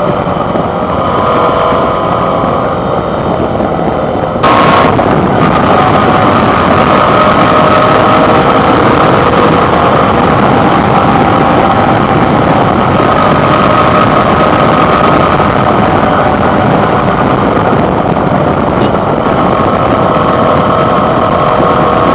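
Suzuki V-Strom 650's V-twin engine running under way, mixed with heavy wind rush on the handlebar microphone. A few seconds in the sound jumps suddenly louder and stays that way.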